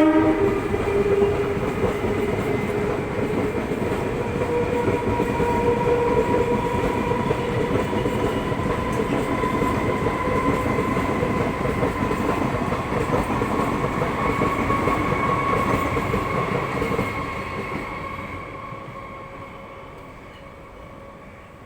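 Indian local train running past with a steady rumble, rail clatter and a whine, fading away over the last few seconds as it recedes.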